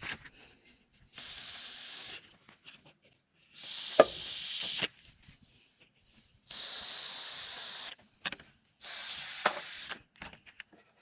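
Pressurized sprayer nozzle hissing in four short bursts of about a second each, injecting wood-preservative solution into small holes drilled in guadua bamboo internodes. A sharp knock sounds during the second burst.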